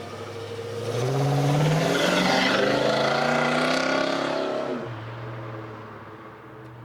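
A car engine accelerating hard away, its pitch climbing for about four seconds before it fades and backs off. A steady lower engine hum remains underneath.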